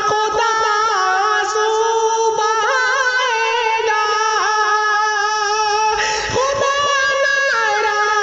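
Wordless vocal interlude of a nazm: layered voices hold long, wavering melodic lines with ornaments. The texture changes about six seconds in.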